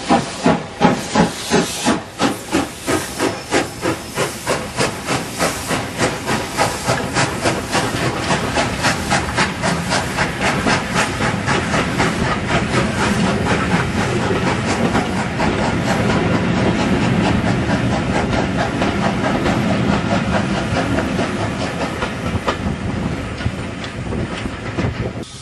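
LBSCR E4 class 0-6-2 tank steam locomotive working hard away from a start, its exhaust beats quickening from about two or three a second to a rapid run that merges into a continuous chuffing hiss as it picks up speed.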